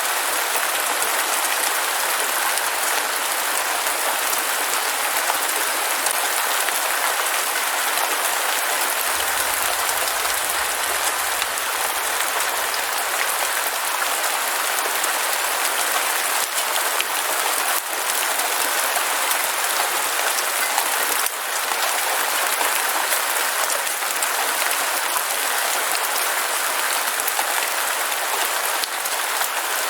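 Heavy rain falling steadily, a dense even hiss of many drops with scattered tiny clicks.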